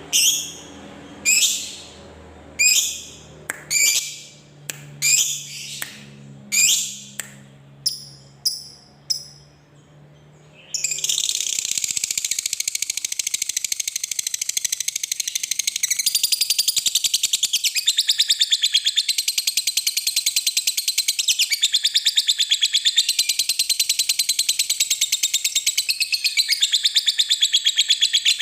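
Lovebird calling: sharp, separate falling calls about once a second at first, then about eleven seconds in it breaks into a long, unbroken rapid chatter (the "ngekek panjang" long chattering trill).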